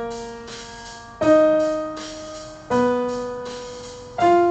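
Piano playing a slow pattern of single notes, one struck about every second and a half and left to ring and fade before the next; the pitch steps up, down, then up again.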